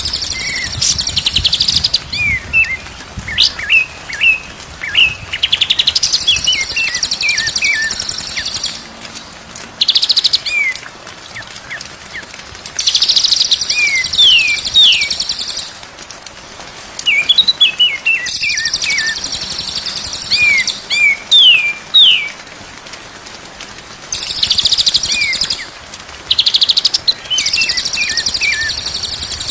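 White-rumped shama (murai batu) song: runs of short, clear falling whistles alternating with long, high, buzzy rapid trills a few seconds each, repeated over and over.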